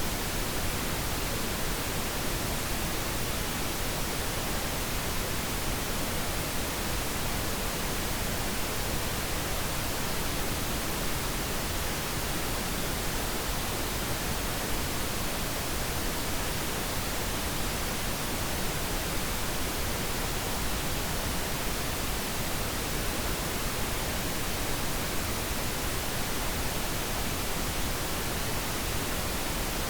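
Continuous, steady pink noise, an even hiss across the whole range with no change.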